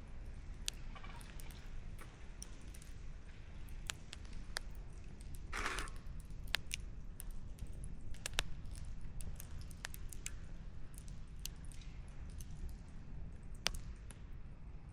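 Wood campfire crackling, with sharp irregular pops and snaps of burning logs over a steady low rumble, and a brief louder rush of noise about six seconds in.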